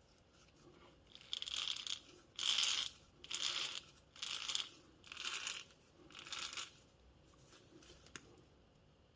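Six short rustling, scraping strokes, about one a second, then a faint click.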